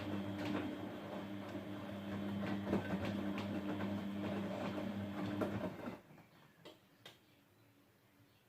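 Grundig GWM4762WE20 washing machine turning its drum during a rinse: a steady motor hum with many small knocks and clicks from the tumbling wet laundry, stopping suddenly about six seconds in. Two faint clicks follow.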